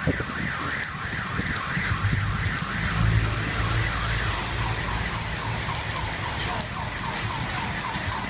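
Heavy rain pouring onto pavement, with an electronic siren or alarm warbling up and down about twice a second, dropping in pitch and fading toward the end. A low rumble sounds about three seconds in.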